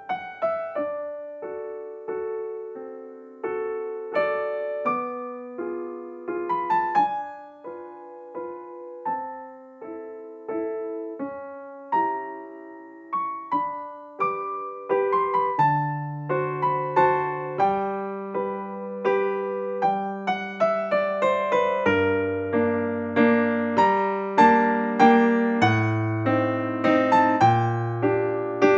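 Background piano music: a gentle melody of single struck notes, joined by lower bass notes about halfway through.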